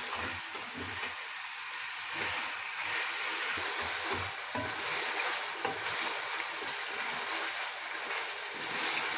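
Chicken and chopped tomatoes sizzling in hot oil in a metal pot, with soft irregular knocks and scrapes of a wooden spoon stirring them, as the tomatoes fry down until soft.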